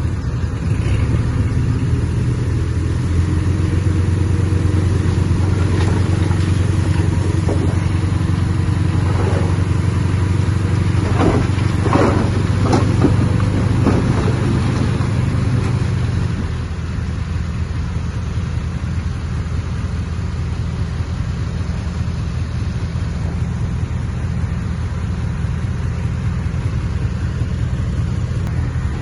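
Heavy diesel earthmoving machinery running steadily, working harder through the first half and easing off a little just past halfway. A few short, sharp sounds come near the middle.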